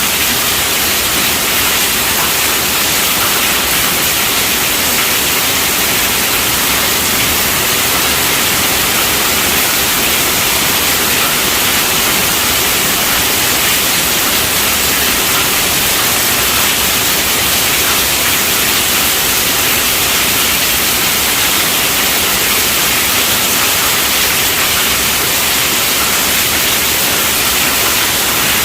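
Heavy rain falling on a tent roof: a dense, steady hiss.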